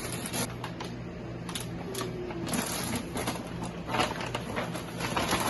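Quick, irregular clicks, taps and crinkles of groceries and their packaging being handled, over a steady low hum.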